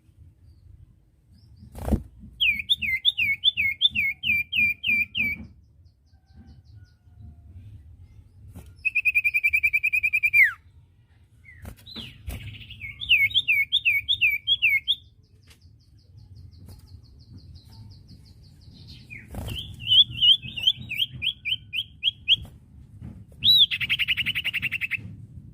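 Common iora (cipoh) singing: bouts of quick, repeated whistled notes, each bout a couple of seconds long. About nine seconds in comes a fast even trill that ends in a downward slide. A buzzier trill follows near the end.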